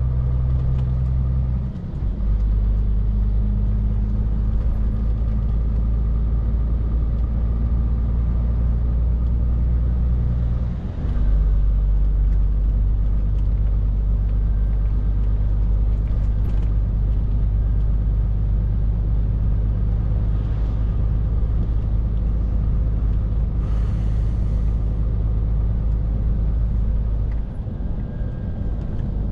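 Scania R450 lorry's 13-litre straight-six diesel running under way, a steady low drone. The engine note dips briefly and settles at a new pitch about two seconds in and again around eleven seconds, with another dip near the end.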